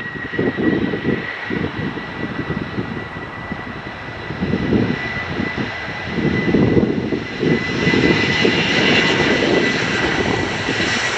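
Airliner engines running near the airfield: a continuous roar with a steady high whine over it, growing louder and fuller about eight seconds in.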